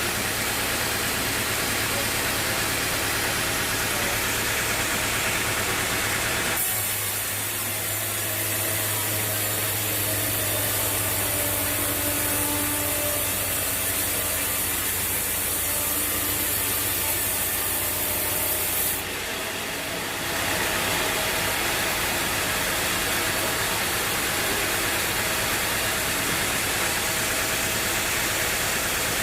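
Bandsaw sawmill running and cutting through a teak log, a steady machine and sawing noise. The sound changes abruptly about seven seconds in and changes back around twenty seconds.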